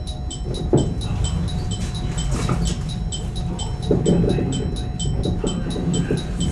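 A high electronic chime beeping rapidly, about three times a second, over the steady hum and low rumble of a 115 series electric train, with a few knocks.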